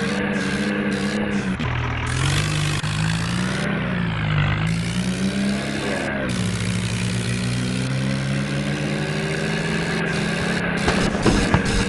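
Tractor engine running under load. Its pitch dips about a second and a half in, wavers up and down for a few seconds, then holds steady, with a fast rhythmic chatter near the start and again near the end.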